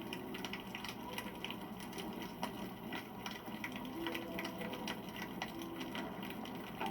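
Wood campfire crackling: a steady bed of burning with frequent irregular sharp snaps and pops, and a few short faint whistling tones from the burning wood.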